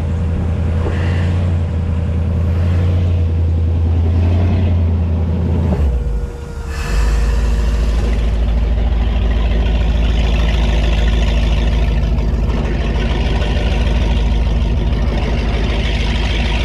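2002 Donzi Classic 22's engine running steadily. About six seconds in its sound dips briefly, then it settles to a deeper note with more hiss on top.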